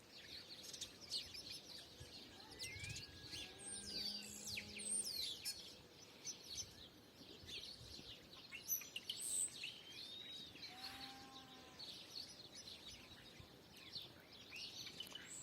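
Faint outdoor birdsong: many small birds chirping and trilling in short, overlapping calls. A couple of lower, faint calls come in about four seconds in and again near eleven seconds.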